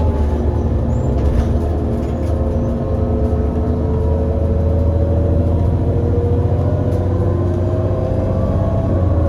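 Irisbus Citelis 18 GNC articulated bus accelerating, its CNG IVECO Cursor 8 six-cylinder engine heard from on board: the ZF Ecomat automatic gearbox shifts up at the very start, dropping the engine note. The engine then climbs slowly and steadily in pitch until the next upshift drops it again near the end.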